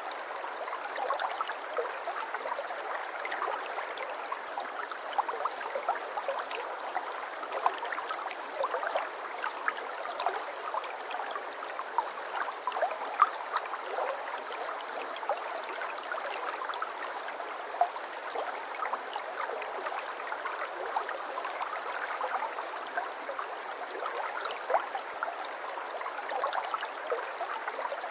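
Shallow brook babbling steadily over stones, a constant wash dotted with small splashes and gurgles.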